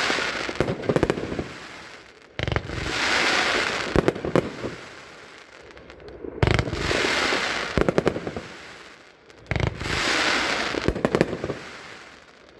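Pickle Parrot 25-shot consumer firework cake firing: three sharp shots about three to four seconds apart, each followed by a crackling, hissing break that lasts a couple of seconds. The tail of an earlier shot is still crackling at the start.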